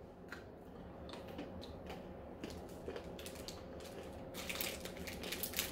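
Faint scattered clicks and crackles, thicker about four seconds in, from a Daim bar being eaten: its hard almond caramel crunched between the teeth.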